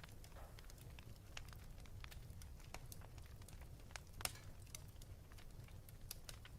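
Wood fire in a fireplace crackling, with faint irregular pops and snaps; the sharpest pop is about four seconds in, over a steady low rumble.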